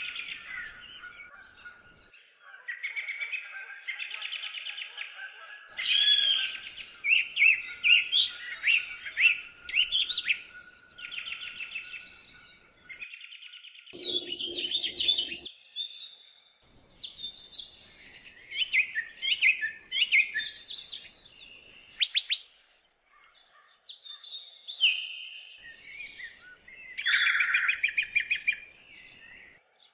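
Birds chirping and singing, many short calls and trills overlapping one another.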